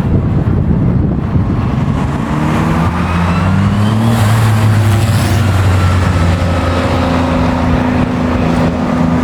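A car engine running loud, rising in pitch as the car accelerates through about the first half, then holding a steady note.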